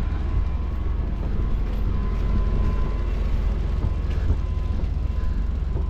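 Steady low rumble of a vehicle on the move, engine and road noise heard from on board, with a faint thin whine running through it.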